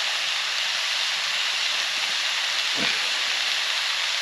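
Mushrooms frying over a campfire, a steady sizzle as they give off their water, with a soft knock about three seconds in.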